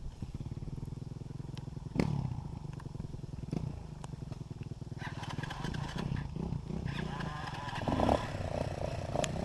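Dirt bike engine running with a fast, even firing beat, with brief louder surges about two seconds in and near the end.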